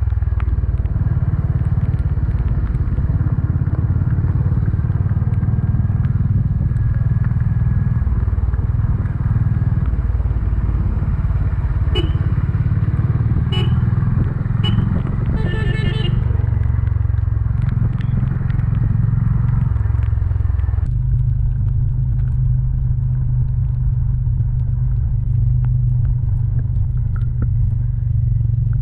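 Honda CB 350 motorcycle engine and exhaust running steadily while riding, a deep low thrum. About halfway through come a few sharp clicks and a brief rapid ticking. About two-thirds of the way in the higher-pitched noise drops away and the low engine note carries on.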